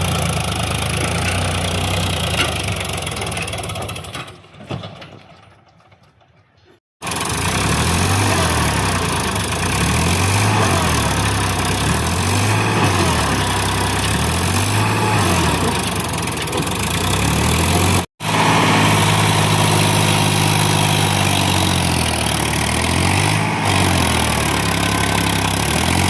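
Tractor engine running, its note rising and falling every couple of seconds as it revs. The sound fades away about four seconds in, comes back abruptly near seven seconds, and drops out for a moment near eighteen seconds.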